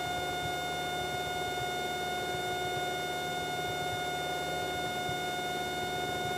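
Cessna 172's engine and propeller droning steadily at climb power just after takeoff, heard from inside the cockpit, with a few steady tones over an even rumble.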